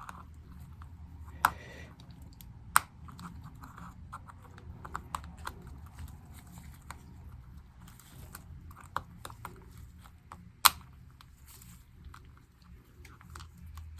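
MacBook keycaps being pried off their scissor clips: small plastic clicks and ticks, with three sharp snaps, the loudest about ten and a half seconds in.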